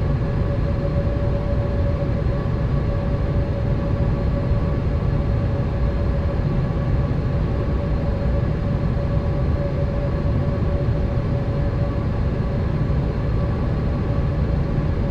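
Steady cabin noise inside a Boeing 787 with its engines running: a low rumble with a constant mid-pitched hum over it.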